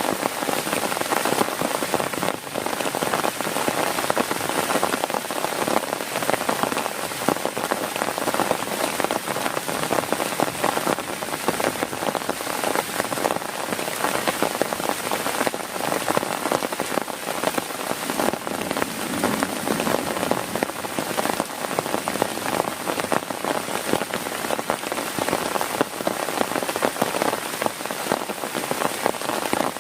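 Heavy rain falling steadily on a tent, a dense patter of drops on the fabric heard from inside.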